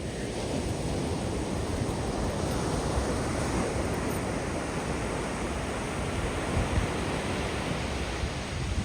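Ocean surf: waves breaking and washing up the beach, a steady rushing hiss over a low rumble that swells a few seconds in as a wave spreads up the shore.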